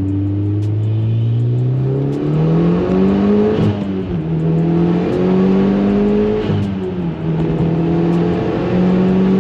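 Turbocharged car engine heard from inside the cabin, accelerating under boost through the gears. The engine note climbs, drops sharply at upshifts about three and a half and six and a half seconds in, and then holds fairly steady.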